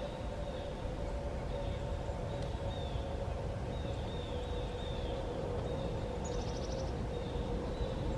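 Birds chirping: short falling notes repeating every second or so, with a quick rapid trill about six seconds in, over a steady low rumble and a faint steady hum.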